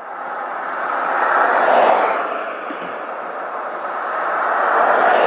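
Two vehicles passing on the road, their tyre noise swelling and fading: one about two seconds in, another near the end.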